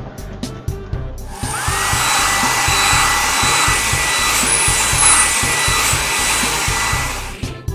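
Cartoon car wash machinery sound effect: a steady, loud hissing blast with a whine that rises quickly and then holds one high note. It starts about a second and a half in and cuts off near the end, over background music with a steady beat.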